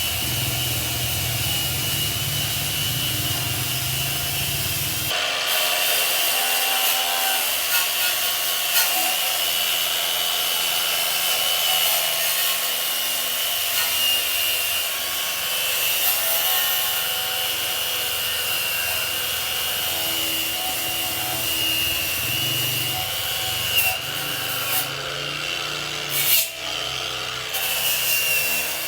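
Power tool running continuously against the workpiece, a steady high whine over a hiss, with a few brief changes in load near the end.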